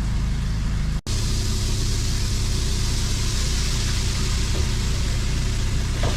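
Steady low machine hum of a food truck kitchen's running equipment, with a hiss over it. The sound cuts out for an instant about a second in, then the hiss is stronger.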